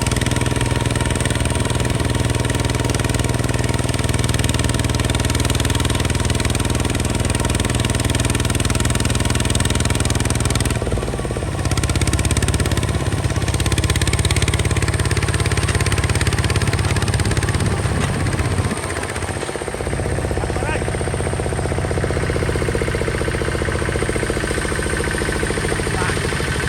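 Hinota HG Gold 155 DI tractor's diesel engine running steadily. Its note changes about eleven seconds in and dips briefly a little before twenty seconds.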